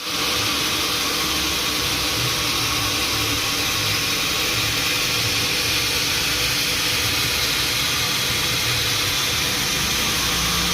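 Sawmill machinery running steadily: a constant engine-like hum under an even hiss.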